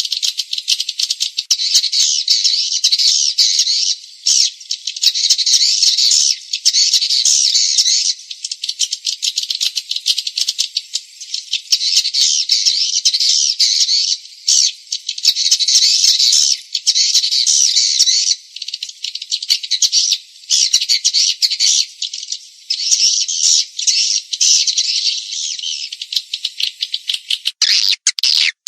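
Swiftlets' dense, rapid rattling twitter, broken by short pauses every few seconds. This is a swiftlet lure call, the kind of recording played to draw swiftlets into a nesting house.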